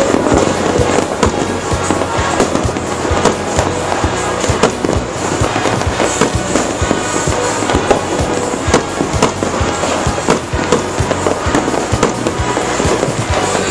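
A dense barrage of New Year fireworks and firecrackers going off: sharp bangs and crackling, several a second, with no let-up.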